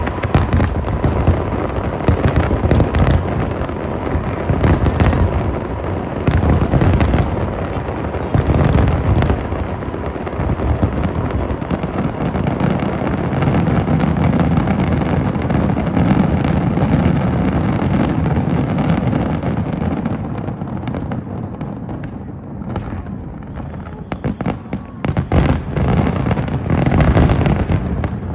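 Aerial fireworks display: a rapid, continuous run of shell bursts and booms with crackle. It eases off briefly about two-thirds of the way through, then picks up again with another flurry of bangs.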